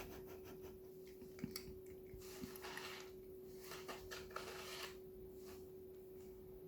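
Faint scattered clicks, taps and brief rustles of cats pawing at a treat toy made of cardboard toilet-paper tubes, over a steady low hum.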